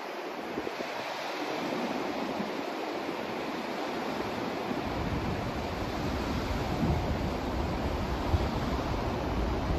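Continuous white-noise sleep track: a rushing hiss that slowly grows louder, with a deep low rumble joining about halfway through.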